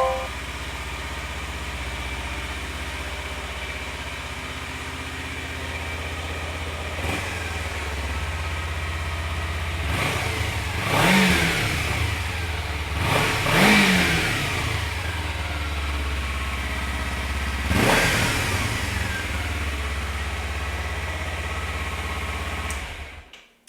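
2013 Kawasaki Ninja 300's 296 cc parallel-twin engine through its stock exhaust, idling steadily and then revved three times, each rev rising and falling back to idle. The sound cuts off near the end.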